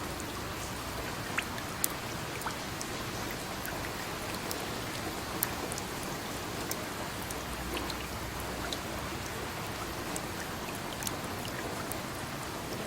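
Steady rain, with scattered sharp drips and drops landing at irregular moments over the even hiss.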